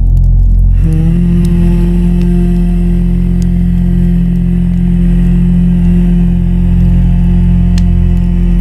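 Ambient music: a low, steady droning pad, with a held note coming in about a second in. A campfire crackles now and then over it.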